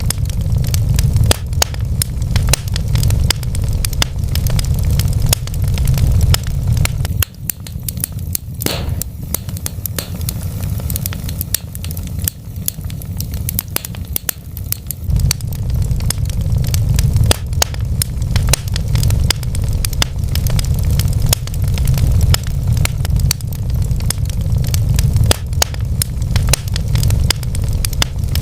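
Wood fire burning in a fireplace, crackling with many small irregular pops and snaps over a low steady rumble. The rumble drops away for several seconds midway and then returns.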